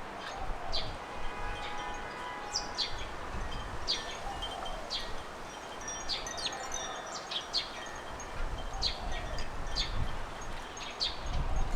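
Garden birds calling: short, sharp high chirps repeated roughly once a second, over faint steady ringing tones and a low background rumble.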